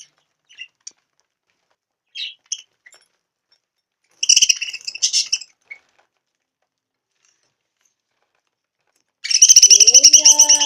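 Small pet birds chirping in short scattered calls, then two loud, harsh bursts of calling: one about four seconds in lasting over a second, and another near the end.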